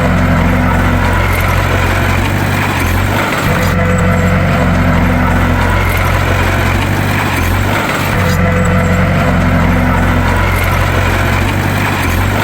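Bulldozer's diesel engine running steadily under load, with a cycle of brief dips that repeats about every four seconds.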